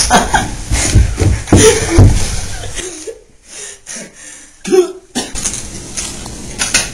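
A person coughing several times in quick succession, then a quieter stretch broken by a short vocal sound.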